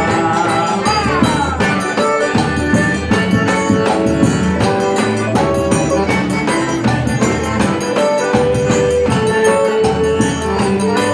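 Live band playing an instrumental passage of the song, with a steady percussion beat under sustained melodic notes.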